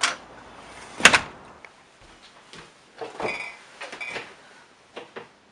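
Exterior door being pulled shut: a click at the start, then the door bangs shut about a second in, followed by a few softer knocks and rustling.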